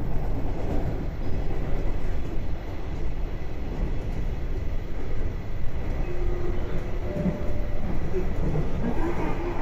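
Passenger train running at speed, heard from inside the carriage: a steady low rumble of the wheels on the rails.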